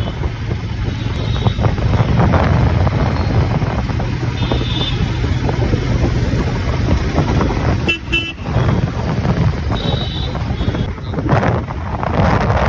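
Steady road-traffic rumble with short vehicle horn beeps sounding several times.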